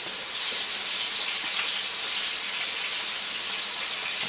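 Battered chicken-fried cube steaks frying in hot vegetable oil in a skillet: a steady sizzle.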